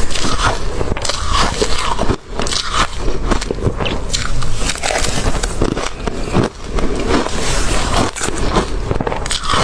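Close-miked crunching and chewing of ice: a dense run of sharp cracks and crackles as the ice is bitten and ground between the teeth, with brief lulls about two seconds in and again past six seconds.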